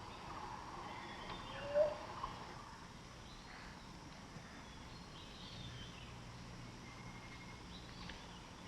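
Faint forest ambience with scattered short bird calls and chirps. One brief rising chirp about two seconds in stands out as the loudest.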